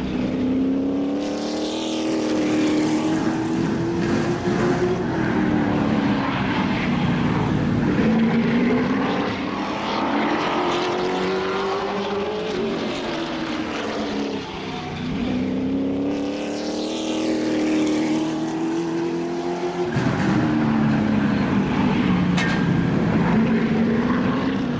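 Race car engines running on the track, their pitch climbing steadily and then dropping, over and over, roughly every four seconds.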